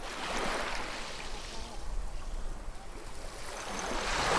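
Sea waves washing on a shore: water swirling and gurgling as it runs back, then the next wave surging in and growing louder near the end.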